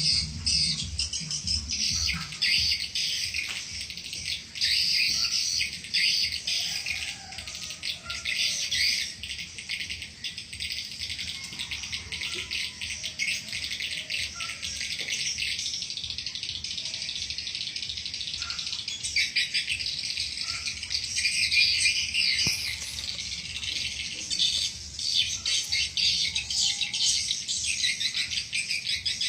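Swiftlets twittering: a dense, unbroken chatter of high chirps, over a faint low hum.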